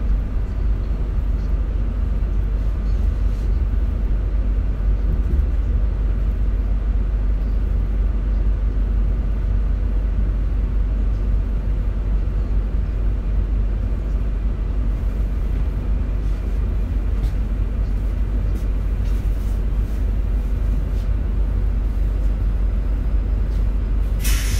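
Steady low rumble of an RER suburban train running, heard from inside the carriage. A sudden loud hiss comes near the end as the train halts at a station platform.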